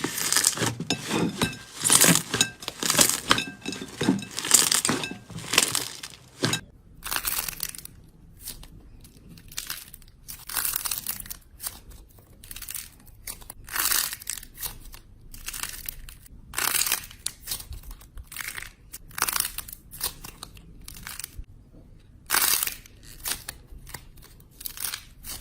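Slime being worked by hand, crackling and popping: a dense run of crackles for about the first six seconds, then separate squishes and pops about once or twice a second.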